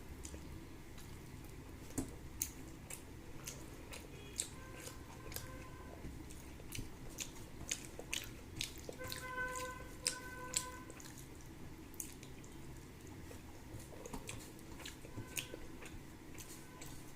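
Close-up eating sounds of a person eating rice and curry: irregular wet mouth clicks and smacks with soft chewing. A faint pitched tone is heard briefly about nine seconds in.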